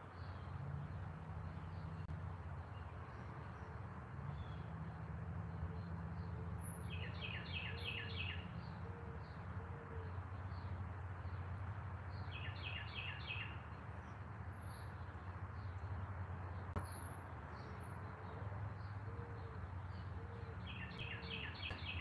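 A songbird singing a short, rapid phrase of five or six high notes three times, over a steady low hum. Between the phrases comes a lower run of four or five soft, evenly spaced notes, twice.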